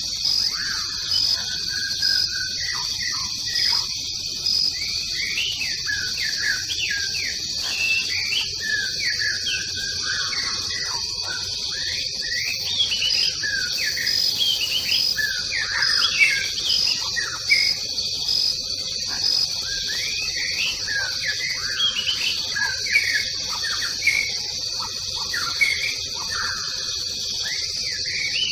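Tropical forest ambience: many birds chirping and calling over a steady, high insect drone, with a pulsing insect call that comes and goes.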